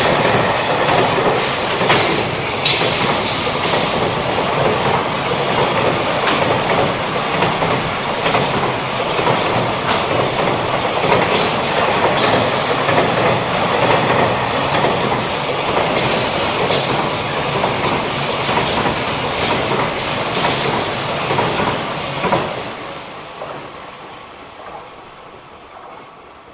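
Loaded container flatcars of a freight train rolling past close by, wheels clicking irregularly over the rail joints with a thin high wheel squeal now and then. The sound dies away over the last few seconds as the end of the train goes by.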